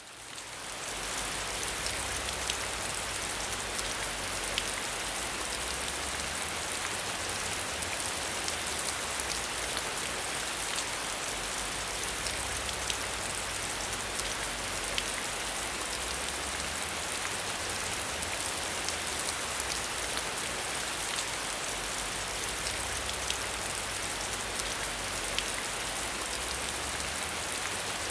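Steady rain falling, with scattered sharper ticks of single drops; it fades in over the first second or so.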